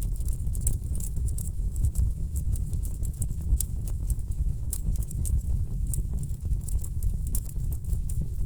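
Wood fire burning in a fireplace: a steady low rumble of the flames, with frequent irregular sharp crackles and pops from the burning logs.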